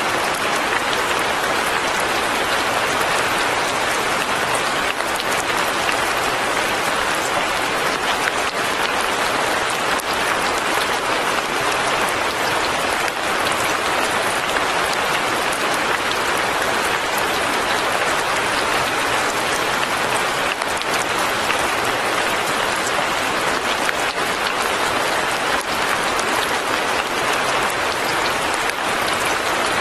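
Light rain falling steadily: a dense, even patter of drops with no change in strength.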